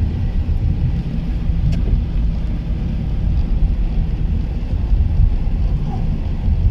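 Car driving on the road, a steady low rumble of road and wind noise heard from inside the cabin.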